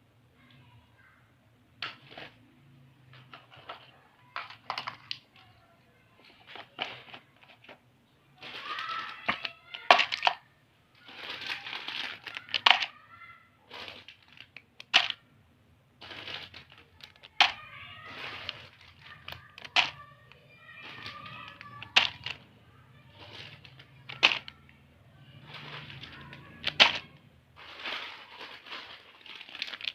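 Plastic snack packets crinkling and rustling as they are handled, in irregular bursts with sharp crackles.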